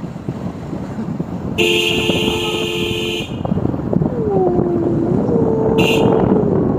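A vehicle horn sounds once, steadily for about a second and a half, over continuous engine and road noise. A short high blip and a long wavering, gliding tone follow later.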